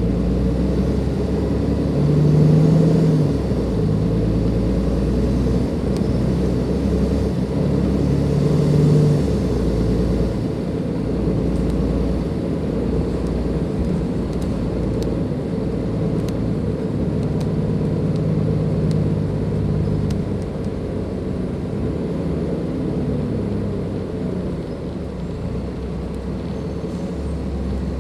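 Cummins ISLe diesel engine of a Dennis Enviro 500 double-decker bus running under way, its note rising and falling as it pulls and eases. There are two louder surges in the first ten seconds, then a steadier, slightly quieter run.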